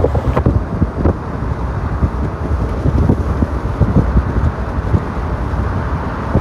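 Wind buffeting the microphone: a loud, gusty rumble with irregular crackling.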